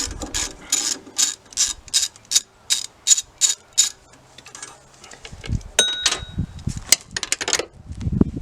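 Ratchet wrench clicking in a steady rhythm, about three strokes a second, as an exhaust manifold bolt is undone. It stops about four seconds in, followed by a single ringing metallic clink and a short clatter of metal.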